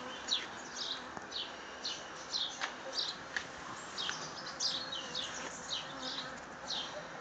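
Birds chirping: short, high, falling notes repeated about twice a second over a steady background hiss.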